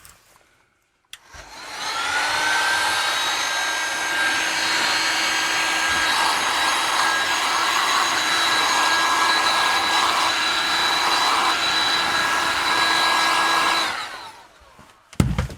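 Old hot air gun switched on with a click about a second in, its fan spinning up to a steady whine over a rush of blowing air. Near the end it is switched off and winds down.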